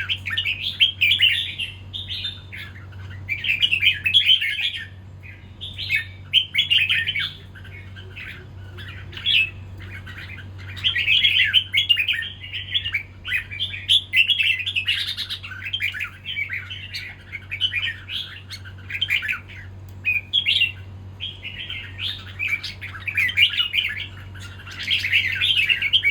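Red-whiskered bulbul singing in repeated bursts of quick, warbling chattering phrases with short pauses between them. A steady low hum runs underneath.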